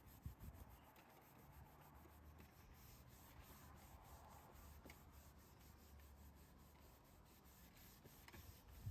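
Faint hand rubbing on a wooden chair's finish, repeated strokes of a cleaning pad or cloth over the wood, under a low steady hum.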